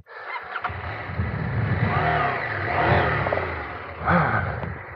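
Adventure motorcycle engine revving up and down under load as the rear tyre spins with no grip on a slippery climb.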